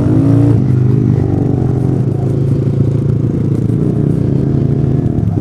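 A small 125cc single-cylinder motorcycle engine running under way. It revs up briefly at the start, then holds a steady pitch.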